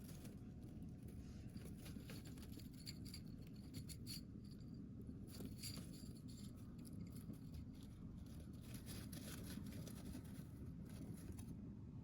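Sea waves at the shore: a faint, steady low rumble with irregular crackling and hissing of washing water.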